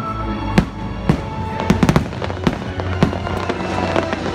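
Aerial firework shells bursting in a rapid string of sharp bangs and crackles, about two big reports a second, with show music playing underneath.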